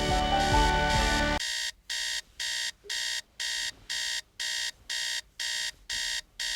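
Background music cuts off about a second and a half in, and an electronic alarm clock starts beeping: short identical beeps at an even pace, a little over two a second.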